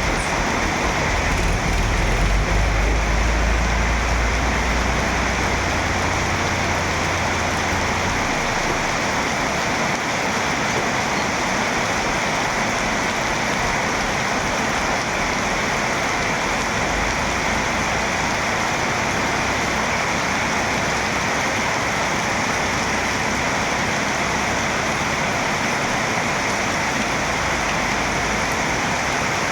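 Heavy rain falling steadily in an even hiss. A deep low rumble runs under it for the first eight seconds or so, then fades out.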